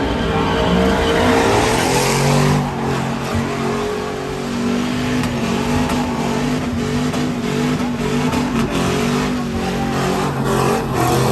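Truck engines revving hard at high speed, loud and sustained, with a dense rushing noise over them.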